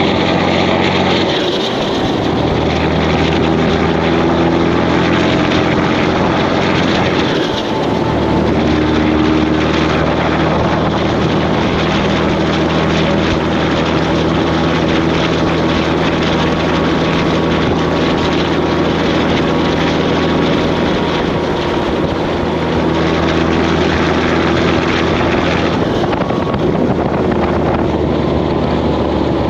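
Semi truck's diesel engine running steadily under way, with a loud, even drone. Its pitch breaks and settles again twice in the first eight seconds and once more near the end.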